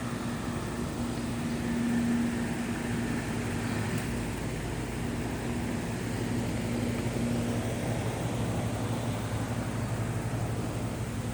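A steady low mechanical hum over a constant rushing background noise, with a faint click about four seconds in.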